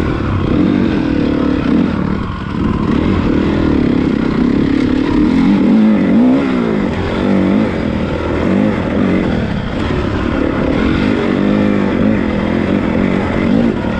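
Honda CRF450 motocross bike's single-cylinder four-stroke engine being ridden, its pitch rising and falling over and over as the throttle is opened and shut.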